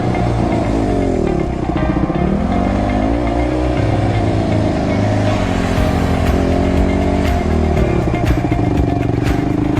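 Motocross motorcycle engine revving, its pitch rising and falling several times as it is ridden. From about halfway there are short sharp clicks over the engine.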